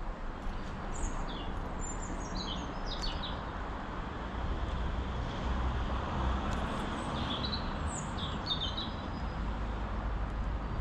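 Small garden birds chirping in short, quick calls, in two bursts of twittering, over a steady low background rumble.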